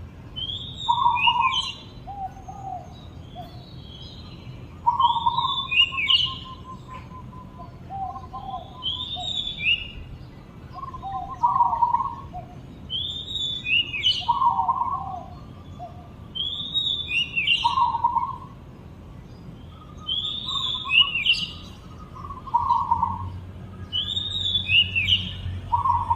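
An oriental magpie-robin and a dove singing: a short song phrase about every three to four seconds, with high whistled slurs over lower notes.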